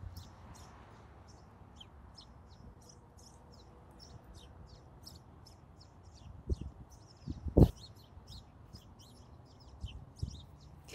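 A flock of small birds chirping, with many short, high chirps coming constantly and overlapping. A few brief low thumps come past the middle, the loudest about seven and a half seconds in.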